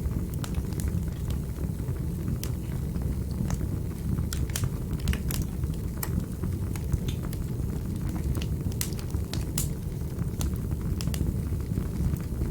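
Wood fire in a fireplace, crackling with sharp, irregular pops and clicks over a steady low rumble of the burning.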